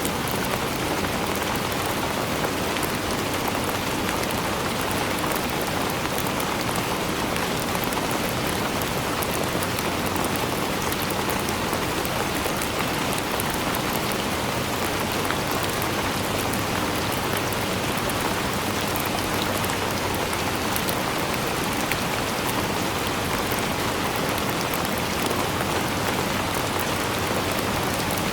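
Steady rain falling and pattering on a surface, with fine drop ticks over an even hiss.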